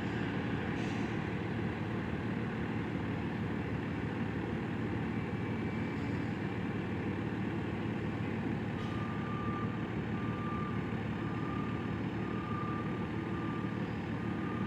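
Truck reversing alarm beeping about once a second, starting a little past halfway through, over a steady background rumble.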